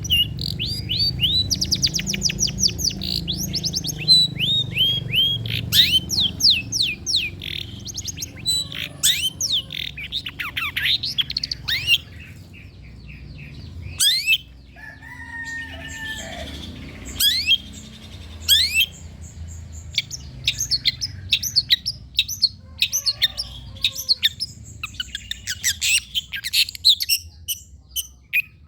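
Long-tailed shrike (cendet) singing: fast runs of high chirps, each sweeping quickly downward, with a harsher, lower call about halfway through.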